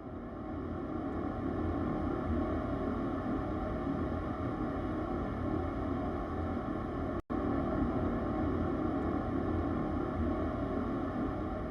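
A motor running steadily at an even speed, with a brief dropout about seven seconds in.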